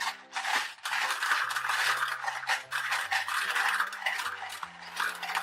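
Handfuls of gumballs clattering and rattling continuously as they pour through a funnel into a toy gumball machine.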